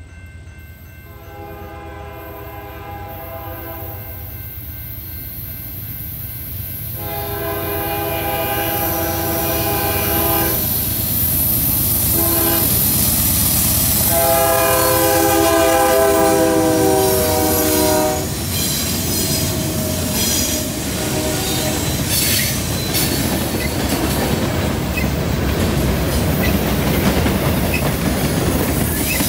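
CN freight train's diesel locomotive horn sounding three long blasts for a road crossing as the train approaches and grows louder. The locomotives' engines then pass, and tank cars roll by with wheels clacking over rail joints and squealing.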